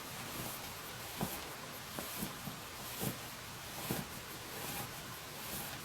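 Bedding being handled: soft rustling and about five muffled bumps as a mattress cover is pulled over a bed, over a steady faint hiss.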